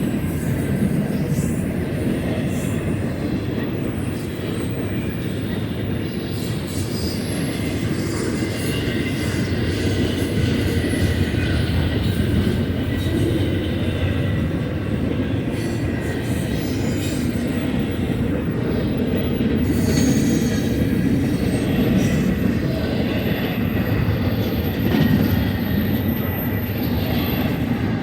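Union Pacific intermodal freight train's cars rolling steadily past, a continuous rumble of wheels on rail with faint wheel squeal.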